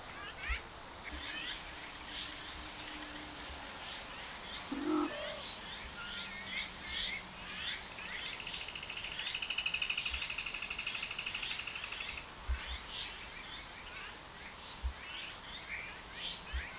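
Small birds chirping: many short, quick chirps throughout, with a longer buzzing trill that runs for about four seconds midway. A brief lower call cuts in about five seconds in.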